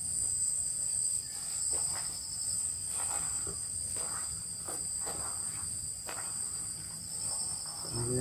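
Night insect chorus of crickets, a steady high-pitched trill, with faint scattered rustles and clicks in the foreground.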